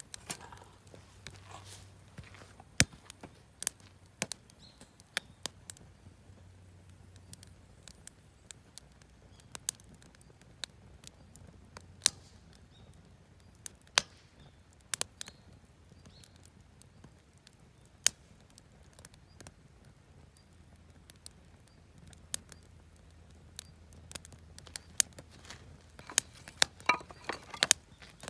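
Campfire of wood offcuts and firewood crackling, with sharp, irregular pops that come more often near the end.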